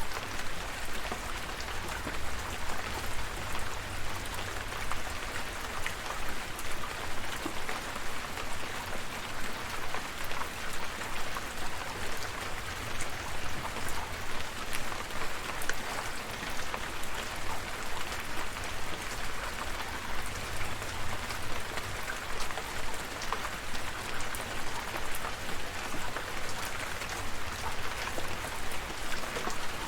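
Steady rain: a dense patter of drops over an even hiss, with a low rumble underneath.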